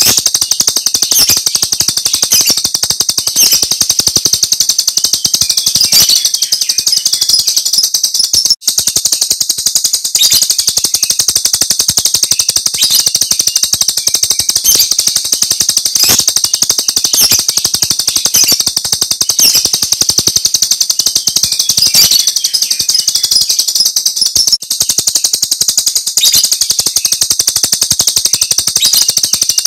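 Jalak Rio starling singing its rapid, high-pitched chattering "tembakan" song without pause, with sharp clicks about once a second and two brief breaks.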